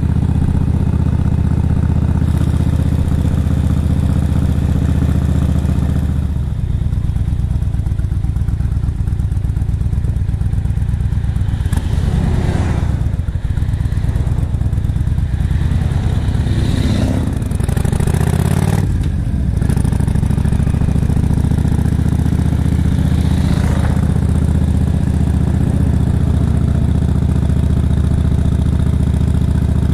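Yamaha XVS1300CU Stryker's 1304 cc V-twin engine running steadily at cruising speed. The engine note drops about six seconds in and comes back up around twenty seconds. A couple of oncoming vehicles pass partway through.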